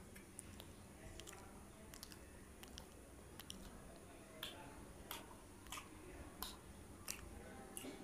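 Close-miked chewing of a soft bread bun (dabeli), with wet mouth clicks and smacks that grow more frequent about halfway through.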